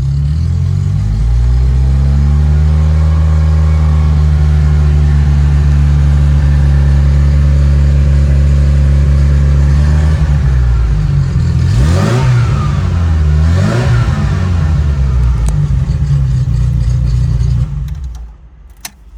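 Ferrari Mondial 3.2's V8 idling; its idle steps up about a second in and holds steady, then the engine is blipped twice in quick succession and settles back. The engine is switched off near the end, followed by a single click.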